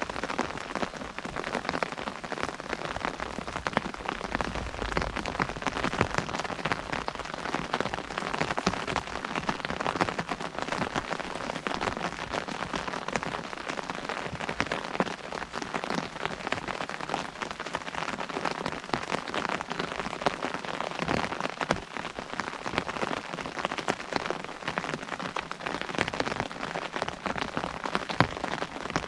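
Steady rain pattering on an umbrella overhead, a dense stream of individual drop ticks with occasional louder drips.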